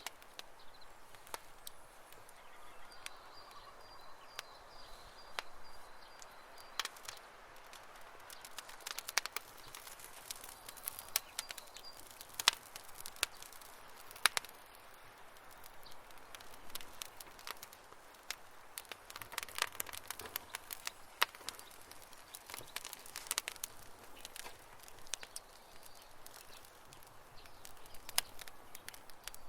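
Campfire crackling: irregular sharp pops and snaps of burning wood, some much louder than others, over a faint steady hiss.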